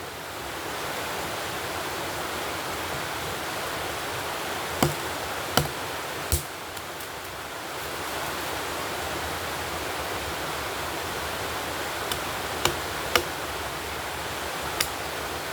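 A steady rushing noise, like running water, with a few short sharp snaps or knocks: three about five to six and a half seconds in, and four more near the end.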